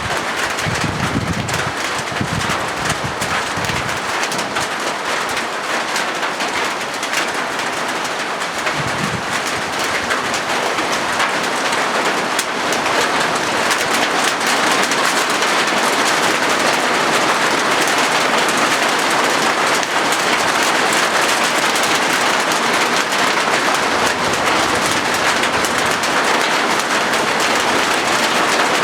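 Steady rain drumming on a corrugated zinc roof: a dense patter of many fine drop ticks that grows a little heavier about twelve seconds in. A few low rumbles come in the first few seconds.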